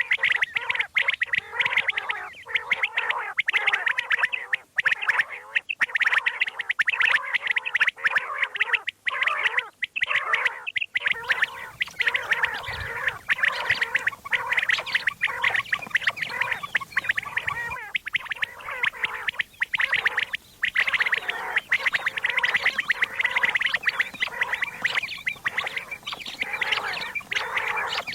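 Common quail calling, a dense, unbroken run of rapid, chattering calls, as played to lure quail when hunting.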